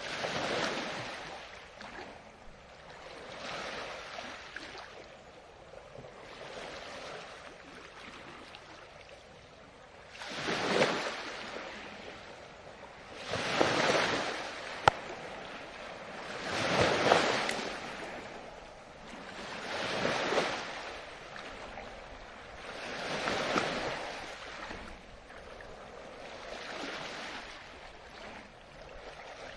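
Ocean waves washing in on the shore, each surge of surf swelling and fading about every three seconds, the biggest ones in the second half. A single sharp click about halfway through.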